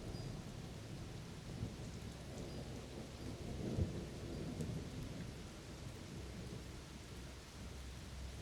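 Thunder rumbling over steady rain. The rumble swells with a sharp crack a little under halfway through, then rolls off.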